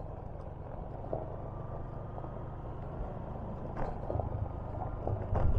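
Steady low rumble of a vehicle travelling, with a few light knocks near the end.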